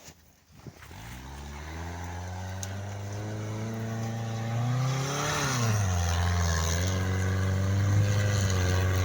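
Toyota 1NZ-FE 1.5-litre four-cylinder engine of an all-terrain vehicle working hard under load up a steep snowy slope. It starts faint and grows steadily louder. The revs climb, then drop back about five to six seconds in, and hold steady near the end.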